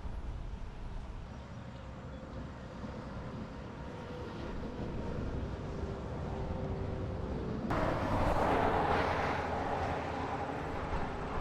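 Steady low rumble of heavy engines, with a louder rush of noise cutting in abruptly about eight seconds in.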